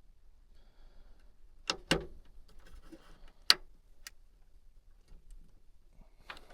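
Four sharp clicks and knocks from hands working at a furnace control board, handling the fuse and test meter: two close together near two seconds in, the loudest about three and a half seconds in.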